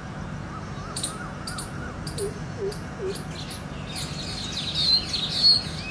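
Small birds chirping: short sharp chips and a faint warble through the middle, three low short dipping notes a little after two seconds in, then a busier high twittering that grows louder toward the end.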